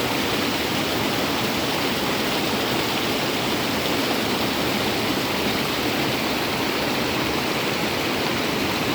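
Steady rush of flowing water, a waterfall or fast stream, as an even unbroken noise.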